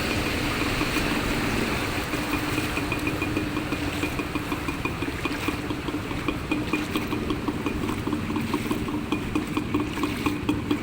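A small engine running steadily, with water sloshing; in the second half it comes in quick, regular pulses.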